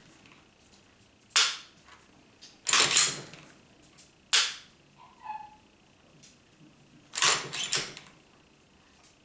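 Smith & Wesson SD40 pistol's action clicking: sharp metallic clicks, single and in quick pairs, a few seconds apart, as the striker-fired trigger is worked and dry-fired.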